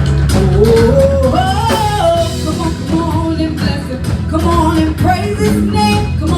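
Live gospel praise band with vocals: a lead singer's melody over bass, guitar and drums, at a steady loud level.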